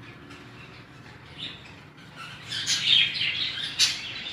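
Pet budgerigars chirping and chattering, faint at first and busier from about halfway, with a sharp tick near the end.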